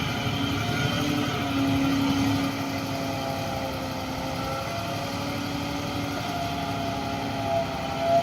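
Heavy earthmoving machine's diesel engine running steadily, with a slight surge in level near the end.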